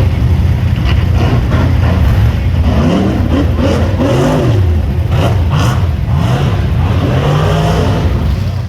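Rock bouncer buggy engine running loud, steady for the first couple of seconds, then revved up and down again and again with its pitch swinging.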